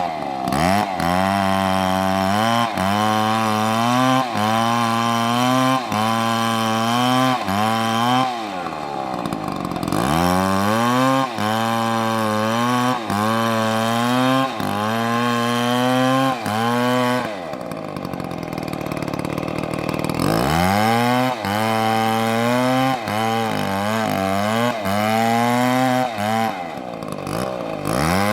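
Two-stroke chainsaw cutting into a tree, its engine pitch dipping and recovering every second or two as the chain bites into the wood. From about 17 to 20 seconds in it drops to lower, steadier revs, then goes back to cutting.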